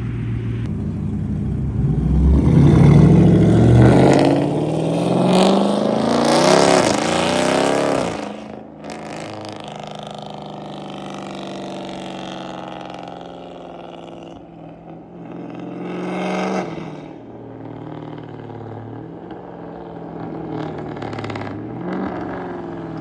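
Catless, straight-piped SRT Jeep V8 accelerating hard past, its exhaust rising in pitch and loudest in the first eight seconds. It cuts off abruptly about eight seconds in, then carries on lower and quieter, swelling briefly twice more near the end.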